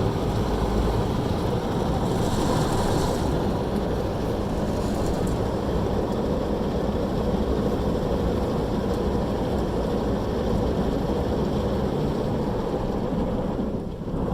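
Steady rumble and rushing noise of a car heard from inside the cabin, dipping briefly near the end.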